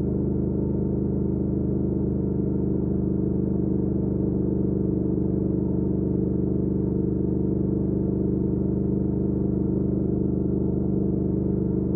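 2019 Triumph Speed Twin's 1200 cc parallel-twin engine running steadily through a Weslake Shorty Pro aftermarket exhaust, holding one pitch at an even cruise.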